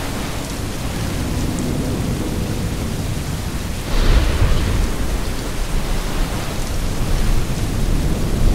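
Steady heavy rain. About four seconds in a thunderclap breaks, followed by several seconds of low rumbling thunder.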